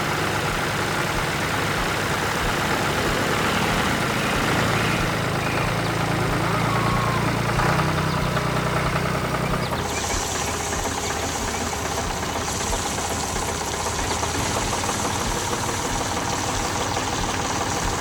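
Farm machine engine running steadily with a regular low knocking; the engine's low hum grows stronger for a few seconds, and about ten seconds in a high, even hiss joins it until near the end.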